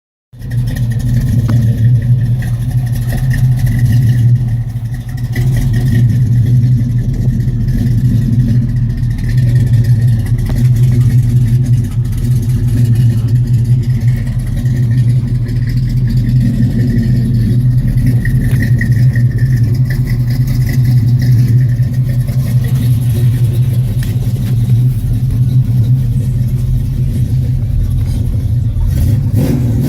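1986 Chevrolet Monte Carlo SS V8 idling loudly through a dumped exhaust with turndowns, the lumpy idle of a small aftermarket cam audible in its uneven pulsing, with a few brief dips in level.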